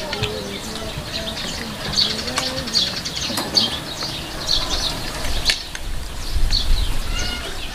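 Small birds chirping over and over, with a few sharp clicks mixed in.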